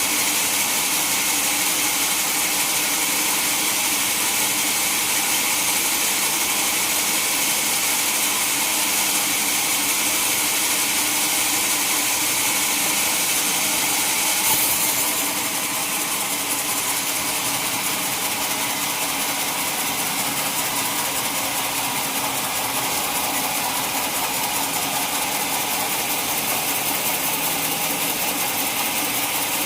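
Sawmill saw machinery running steadily. About halfway there is a brief sharp sound, after which the running noise drops slightly in level.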